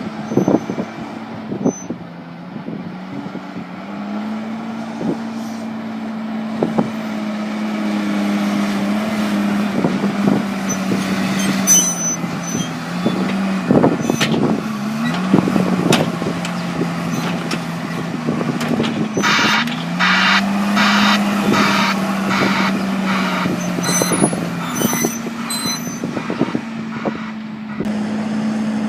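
Heavy diesel farm machinery working at silage, its engine note rising and falling a little as it runs, with scattered knocks and clunks. From about two-thirds of the way in, a quick run of evenly spaced pulses sounds for several seconds.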